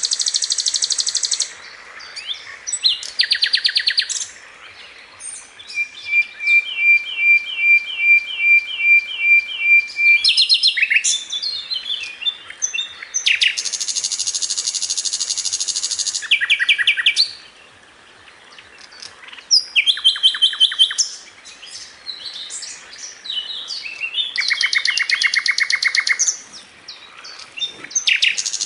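Sikatan londo flycatcher song used as a masteran tutor track: high-pitched chirps and fast rattling trill volleys ('tembakan'). In the middle comes a run of evenly repeated notes, about two a second, for a few seconds.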